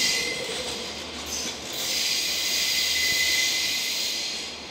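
Rail-laden Chiki freight flat wagons rolling past on a curve: a loud hiss of wheels on rail with a thin high wheel squeal, dipping about a second in, then falling away near the end as the last wagon passes.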